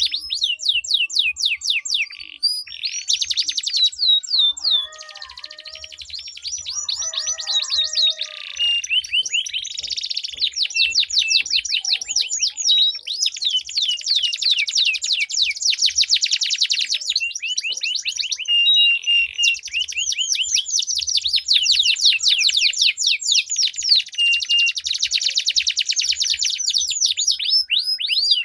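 Domestic canaries singing long rolling trills: fast runs of repeated, downward-sweeping high notes. The song eases off for a few seconds near the start, then picks up again and runs on densely.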